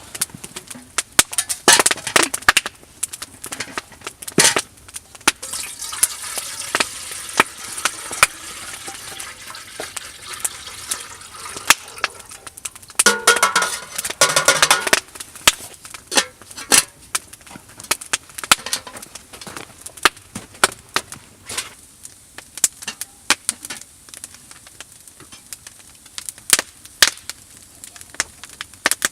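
Campfire crackling: irregular sharp pops and snaps over a steady hiss, with a denser, louder stretch about halfway through.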